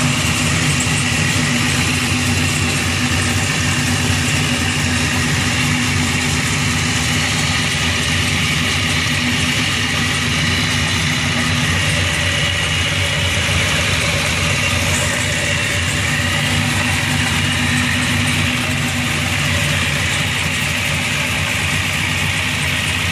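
Cammed LS V8 (6.0 L block with an LS3 top end) in a fourth-generation Camaro SS idling steadily, heard from the open engine bay. This is the choppy big-cam idle the owner calls a popcorn machine, on its first run after months of sitting.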